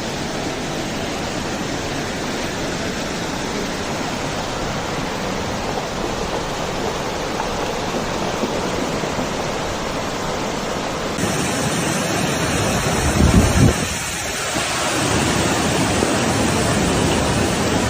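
Steady, even rushing noise of torrential rain and flash floodwater. The sound shifts abruptly about eleven seconds in, and a loud low rumble comes a couple of seconds later.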